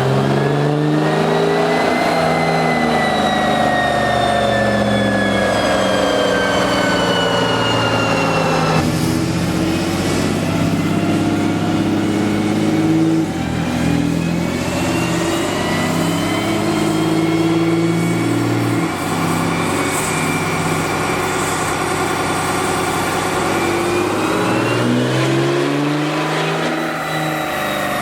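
6.7 Cummins turbo-diesel pickup engine revving under load on a chassis dyno. Its pitch climbs over the first couple of seconds, then falls slowly; about nine seconds in it changes abruptly to a steadier running, and near the end it climbs again.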